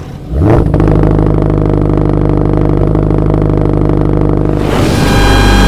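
Car engine running loud at steady revs, holding one pitch; a little before the end a broader rush and high whine join in.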